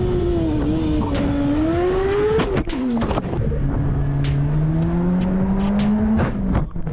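Motorcycle engine under way, its pitch rising, dropping sharply at a gear change about two and a half seconds in, then climbing steadily again, over a constant rumble of wind and road.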